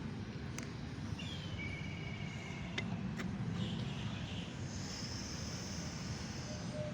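Outdoor ambience with a steady low background rumble. A bird gives a couple of whistled calls a second or two in, and a high, steady chirring, like an insect, joins over the second half. A few faint clicks are scattered through it.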